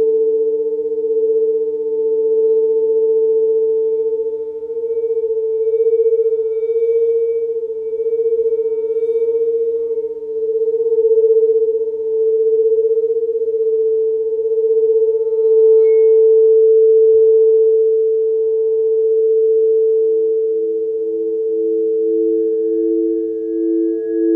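Layered steady pure tones of a sound-healing sleep frequency: one strong mid-pitched tone with fainter lower and higher tones, slowly swelling and fading. From about two-thirds in, a lower tone throbs in a slow, even pulse.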